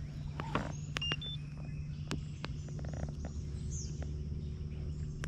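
A steady low hum with scattered light clicks and a few short, high chirps.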